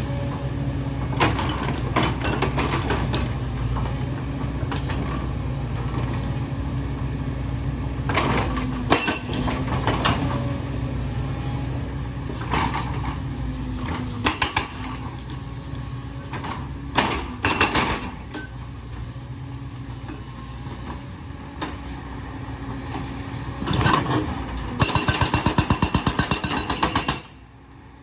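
Hyundai excavator's diesel engine running steadily, with scattered metallic clanks and knocks from the machine working on rock. Near the end a fast rattling clatter, then the sound cuts off abruptly.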